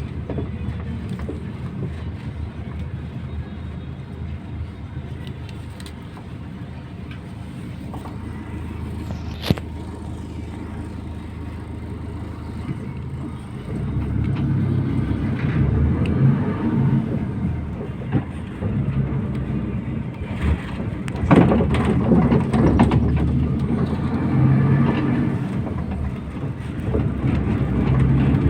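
MAZ 241 bus engine running, heard on board during the ride: a steady low hum for the first half, then louder and working harder from about halfway through. A sharp click about a third of the way in, and a few knocks and rattles in the later part.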